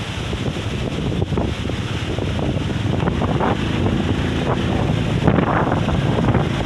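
Strong wind buffeting the microphone in gusts, a continuous low rumbling roar that swells a little toward the end.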